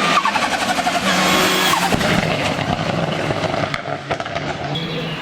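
Hill-climb race car's engine at high revs; the revs drop sharply near the start with a series of sharp crackles, then rise and fall again through gearshifts.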